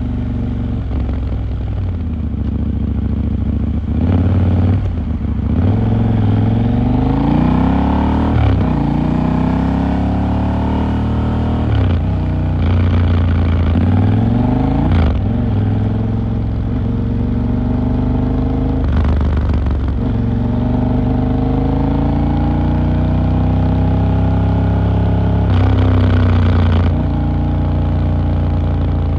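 KTM 890 Duke R's parallel-twin engine under way, its revs climbing and then dropping sharply again several times as it pulls through the gears, then running steadier near the end.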